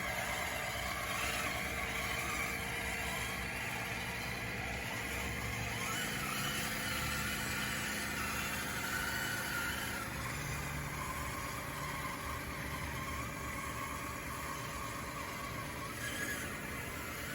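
RC bulldozer's electric drive motors and gearboxes whining steadily, the whine shifting in pitch as the machine works, with a low rumble beneath.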